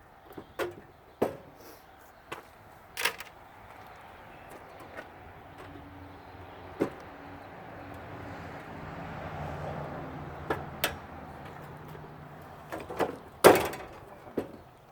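Scattered sharp knocks and clatters from a central air unit being taken apart by hand, the loudest near the end. A low hum swells and fades through the middle.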